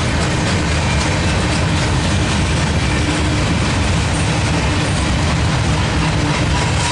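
Loaded Herzog ballast hopper cars of a freight train rolling steadily past, steel wheels running on the rails.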